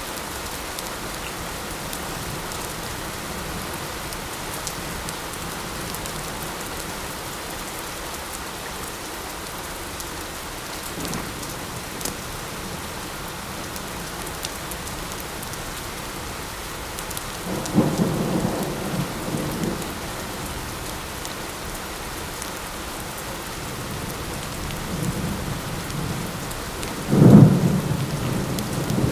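Steady light rain with rolls of thunder: a faint rumble about a third of the way in, a longer rumble about two-thirds through, and the loudest, sharpest peal near the end. A few faint sharp crackles of a campfire sound through the rain.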